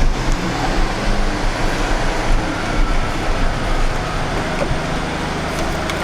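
Steady rumble and hiss of a running vehicle, easing a little after about four seconds.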